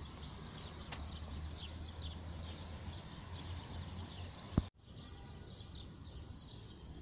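Outdoor garden background of small birds chirping, with a steady low hum under it. A sharp click and an abrupt cut come about two-thirds of the way through, after which the background is quieter.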